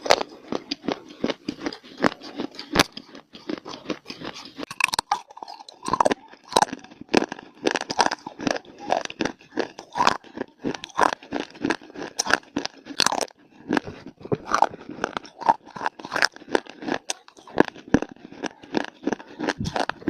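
Close-miked crunching as someone bites and chews hard, dry clay-like pieces: a fast, irregular run of sharp crackles with no let-up.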